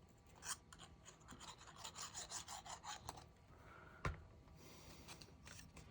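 Faint rubbing and rustling of a scored paper strip being folded and pressed at its glued seam: a quick run of scratchy strokes over the first few seconds, then a single tap about four seconds in.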